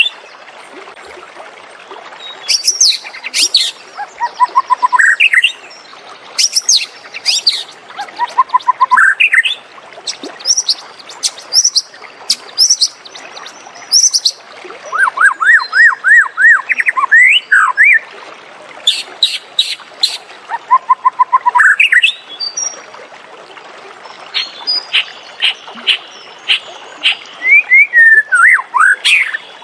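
White-rumped shama singing: loud, varied whistled phrases made of quick repeated notes, rising glides and sharp high clicks, with short pauses between phrases.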